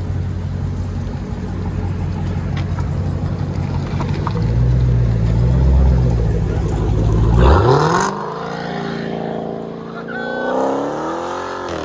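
Supercharged 6.2-litre HEMI V8 of a Dodge Challenger Hellcat, running with its mufflers and resonators cut off, rumbling low and then accelerating hard about seven seconds in. The pitch climbs steeply, dips briefly near the end, and climbs again.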